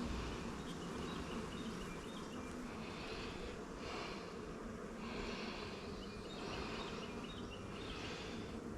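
Honeybees buzzing steadily around an open hive, with short hissing sounds about once a second in the second half.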